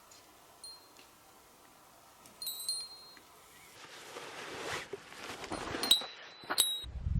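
Small metal objects clinking, three times, each with a brief high ringing, with rustling in between that builds up after the first clink.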